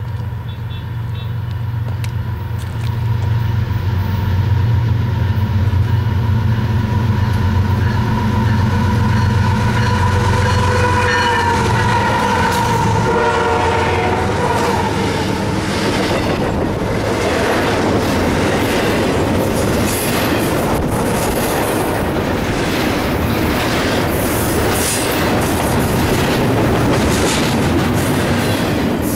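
An intermodal freight train's diesel locomotives approach and pass with the horn sounding over the loud, low engine drone. After about fifteen seconds the horn stops and the steady clatter of the container cars rolling over the rails takes over.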